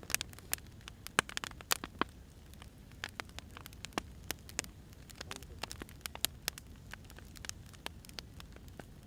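Wood fire crackling: irregular sharp pops and snaps, several a second, over a steady low hiss.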